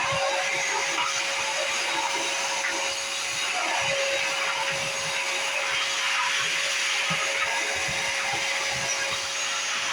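Vacuum cleaner running steadily with a constant whine, with irregular low bumps as it is pushed about.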